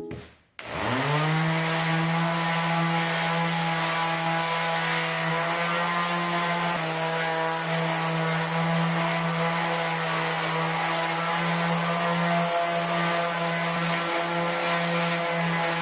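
Electric power tool motor spinning up quickly, then running steadily at a constant high speed with only slight dips in pitch near the end. This is the kind of tool used for stripping rust from the safe's steel body.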